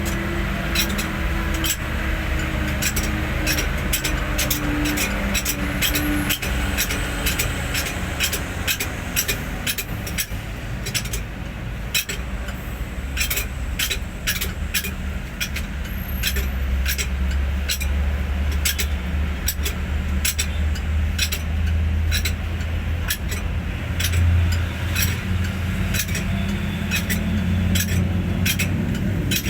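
Hino 500 truck's diesel engine running steadily, with sharp clicks roughly two a second over its low hum.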